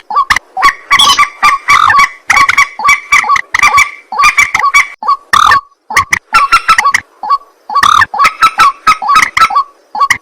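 Rail-family water birds (waterhen/moorhen type) calling: a rapid, harsh string of repeated croaking notes, several a second, running on almost without pause and overlapping as if from two birds.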